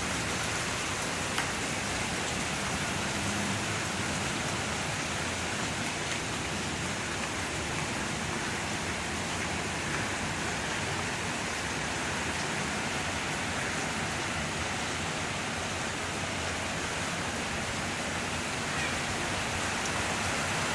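Heavy thunderstorm downpour: a steady, even hiss of rain.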